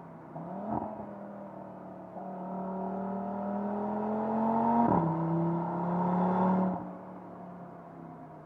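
Audi RS3's turbocharged 2.5-litre inline-five engine pulling under acceleration, its note rising steadily. About five seconds in the pitch drops suddenly with a gearshift, then rises again. It eases back about seven seconds in to a lower, steady run.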